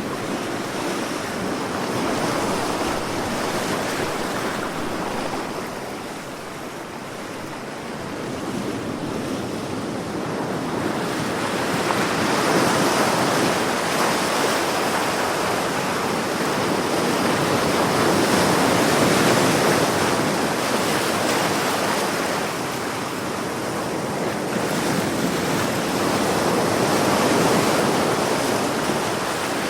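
Sea waves breaking and washing on a shore, a continuous wash of surf that swells and eases slowly over several seconds.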